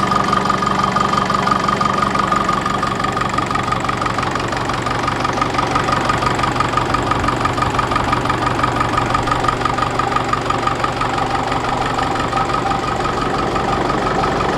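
Ferguson TEF-20 tractor's four-cylinder diesel engine ticking over steadily at idle with an even knocking clatter.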